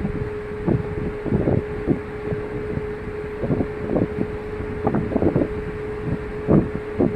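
Wind buffeting the microphone in irregular gusts, over a steady mechanical hum.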